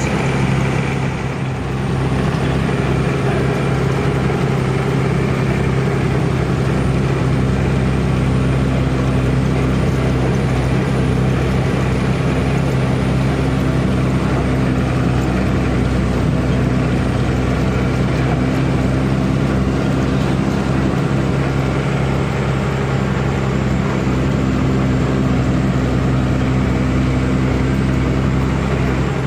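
Diesel truck engine running steadily under way, a constant low drone with road and cab noise.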